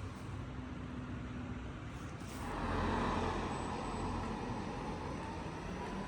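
Bus engine and road noise, a steady low rumble that grows louder about two and a half seconds in.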